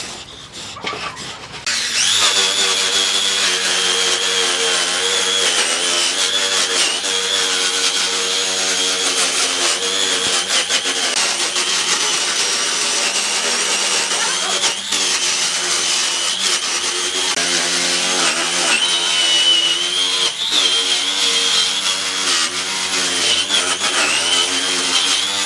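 A handheld power tool running steadily on hardwood with a high whine that wavers slightly in pitch as it works; it starts about two seconds in.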